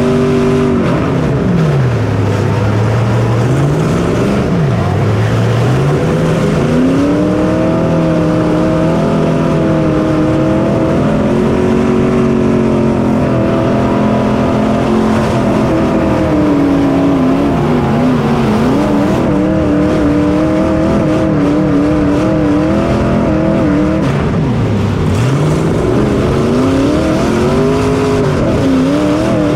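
Small race car engine heard onboard, revving high along the straights. It drops sharply in pitch and picks back up about two, five and twenty-five seconds in, as the car slows for turns and accelerates out.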